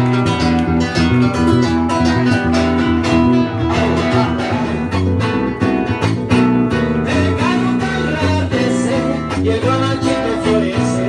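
Music led by a strummed acoustic guitar, with even strokes and sustained chords throughout.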